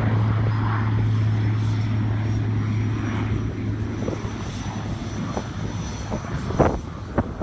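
Beechcraft King Air 90's Pratt & Whitney PT6A turboprop engine running during start-up, with a steady low hum that fades out about four seconds in. A few sharp thumps come near the end.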